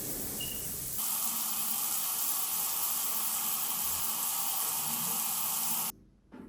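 A steady hissing noise, like spray or steam, which gets louder about a second in and cuts off suddenly near the end.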